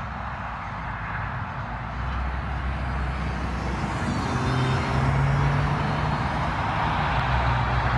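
Road traffic noise, tyres and engines on a highway, with a vehicle's low engine hum growing louder about halfway through.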